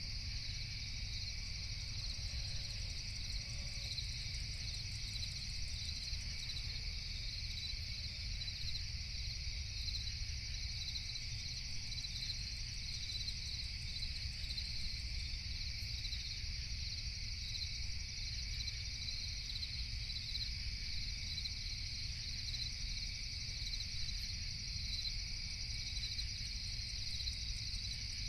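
A steady chorus of crickets trilling at night, a dense high-pitched chirring that never lets up, over a faint low rumble.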